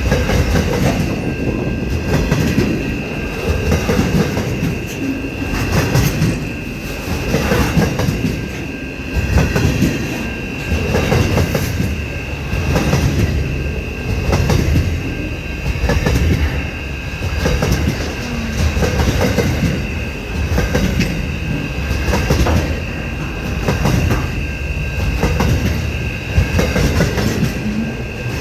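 Aurizon freight train's wagons rolling on the rails, wheels clacking in a rhythm that swells about every two seconds, with a faint steady high ring over the rumble.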